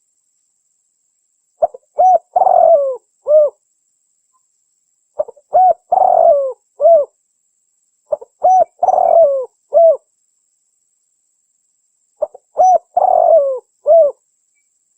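Spotted dove (tekukur) call, the song phrase of a few short coos around a longer drawn-out middle coo, repeated four times at even spacing about every three and a half seconds.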